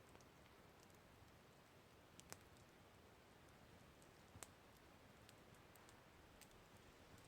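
Campfire crackling faintly: scattered sharp pops and ticks of burning wood, the two loudest about two and four seconds in, over a faint steady hiss.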